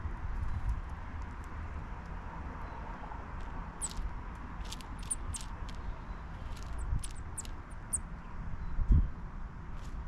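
Chipping sparrows giving short, high chip calls, a scattering of them from about four seconds in, over a low rumble with one louder thump near the end.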